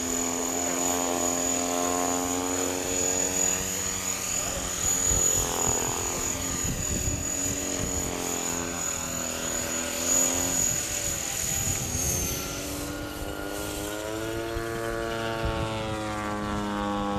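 A T-Rex 500 radio-controlled helicopter running, its rotor hum carrying a thin high motor whine. About two thirds of the way through the rotor speed dips and the whine slides down and stops, then the rotor speed climbs back up.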